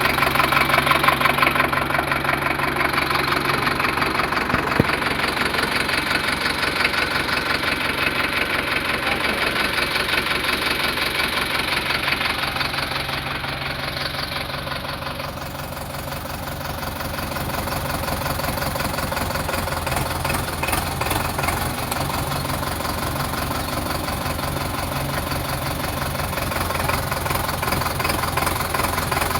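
Sonalika DI 750 tractor's diesel engine running steadily with a rapid knocking beat. It grows a little quieter about halfway through, then louder again.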